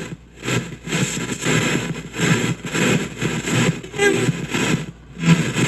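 SBox spirit box sweeping through radio stations, played through an ANC noise reducer into a shop radio: choppy static and snatches of broadcast sound, broken by short gaps about twice a second.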